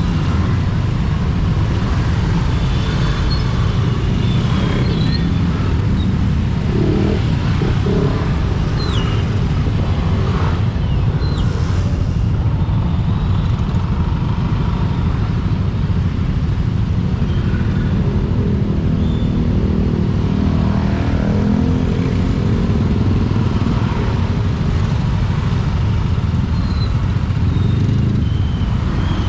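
Riding a motorcycle in heavy traffic: a steady low rumble of wind and engine, with other vehicles passing. A few short high squeaks are heard, and about two-thirds of the way through a passing engine's tone rises and falls.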